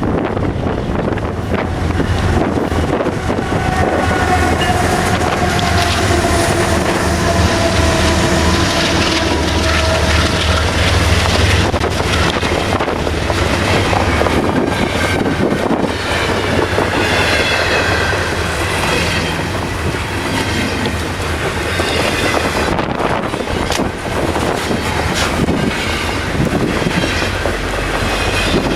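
CN GE ES44AC diesel locomotives passing, their V12 engines giving a heavy, steady rumble with slowly falling tones for the first dozen seconds. After that the double-stack cars roll by with wheel clatter and some high-pitched wheel squeal.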